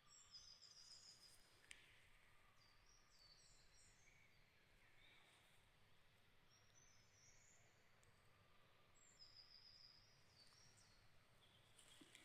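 Faint songbirds singing: short, high twittering phrases repeated every couple of seconds over a soft background hiss, with one sharp click about two seconds in.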